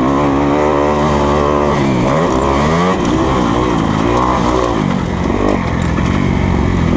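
A 2020 Kawasaki KX250F's single-cylinder four-stroke engine being ridden hard. The revs rise and fall several times as the throttle is opened and rolled off.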